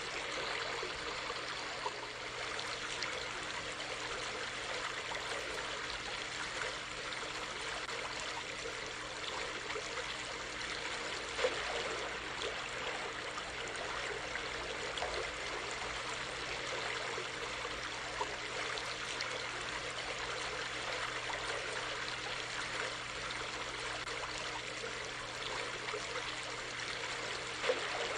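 A small creek flowing and trickling steadily over stones, with a few slightly louder splashes, one about halfway through and one near the end.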